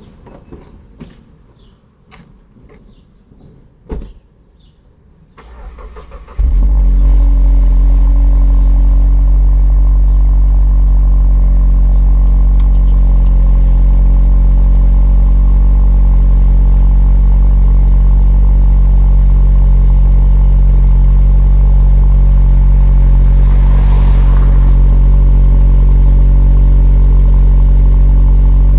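Cold start of a 2021 Mazda 3's 2.5-litre turbocharged four-cylinder through a MagnaFlow axle-back exhaust and 63.5 mm midpipe. A few small clicks and a thump come first, then the starter cranks briefly and the engine catches about six seconds in. It then settles into a steady, low-toned idle.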